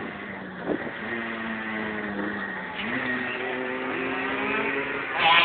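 Motorcycle engine running steadily, its pitch rising about three seconds in as it revs up, with a brief louder burst near the end.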